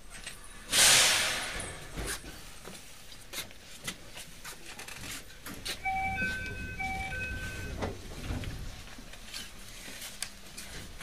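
Inside a narrow-gauge electric train at its stop: a loud burst of compressed-air hiss about a second in that fades over a second, then scattered clicks and knocks. Around six seconds in, a short electronic chime of repeated two-note tones sounds, followed by a low rumble.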